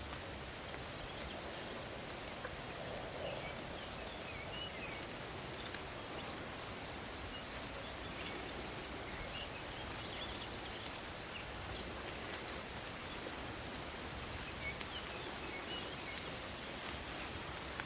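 Night forest ambience: a steady hiss with scattered short, faint chirps and occasional ticks.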